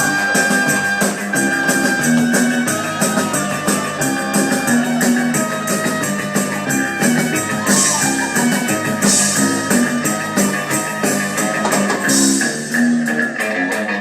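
Live band playing an instrumental passage, with guitar, drum kit and tambourine keeping a steady beat.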